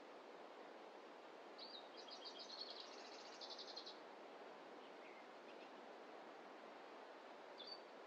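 A small songbird sings one fast, high trill lasting about two seconds, starting about one and a half seconds in, then gives a single short high note near the end. Under it is a faint, steady hiss of forest ambience.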